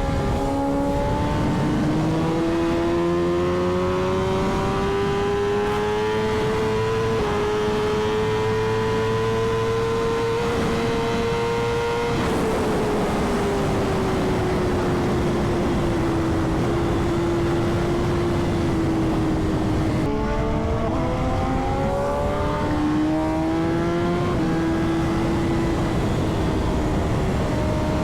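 Superbike engine heard on board while riding: its pitch climbs steadily for about twelve seconds with one small step, drops as the throttle eases, then climbs again in short steps through gear changes near the end. Steady wind rush runs beneath it.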